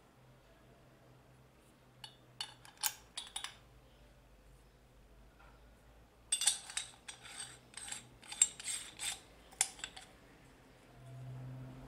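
Hard parts of a meat mincer being handled: two bursts of light clicks and clattering, a few about two seconds in and a denser run from about six to ten seconds. A low hum gets louder near the end.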